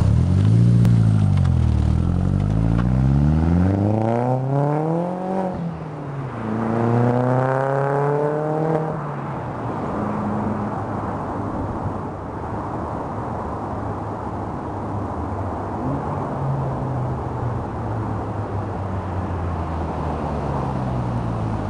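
Volkswagen GTI's 1.8-litre turbocharged four-cylinder through a 3-inch cat-less turbo-back exhaust, accelerating away: the note climbs in pitch, drops at a gear change about five seconds in, climbs again, then settles into a steady drone after another shift.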